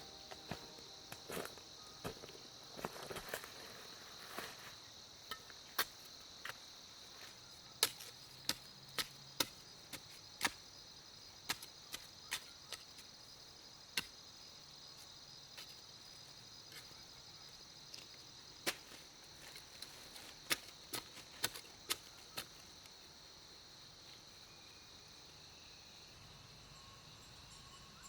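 A steady chorus of crickets, with a string of sharp knocks at uneven intervals, like tool strikes on wood, that stop about three-quarters of the way through.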